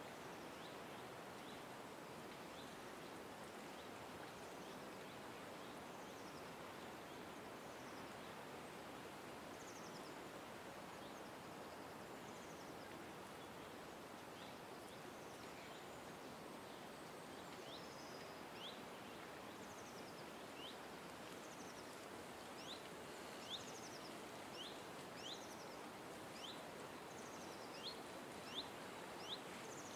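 A small bird giving short, high, falling chirps over a steady hiss of outdoor background noise. The chirps come faintly at first, then grow louder and more frequent from about halfway through.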